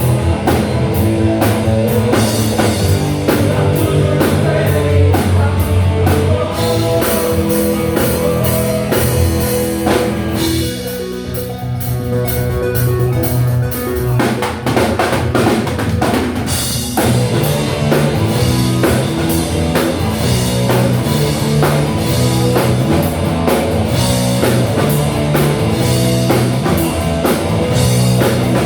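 Live rock band playing an instrumental passage on drum kit, electric guitar and bass. The drums drop back for a few seconds about a third of the way in, then the full band comes back in.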